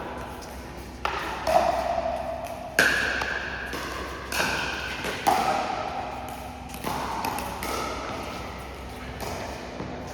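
A pickleball rally: paddles striking the hollow plastic ball in sharp pops, about one every second, each with a brief ringing tail.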